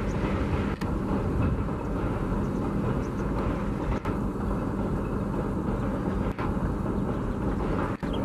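Passenger train coaches rolling over a railway girder bridge: a steady, loud rumble of wheels on the track.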